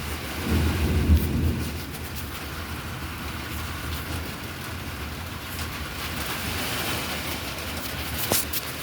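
Heavy thunderstorm rain falling steadily, with a low rumble about a second in and a sharp click near the end.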